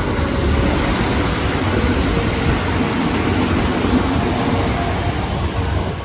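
A Sanyo Electric Railway electric commuter train runs through a station, a steady rush of wheels on rail and running gear. It swells to its loudest about four seconds in and falls off near the end as the train draws away.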